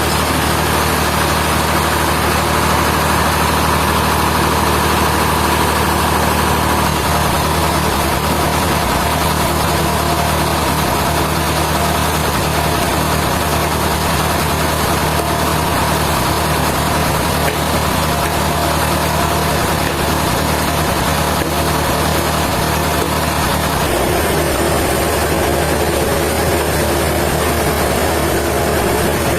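Sawmill machinery running with a steady engine-like drone; the tone shifts about five seconds before the end.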